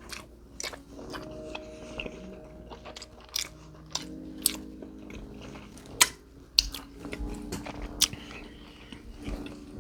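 Close-up eating sounds: a person chewing with wet lip smacks and sharp clicks of the mouth, the loudest smack about six seconds in.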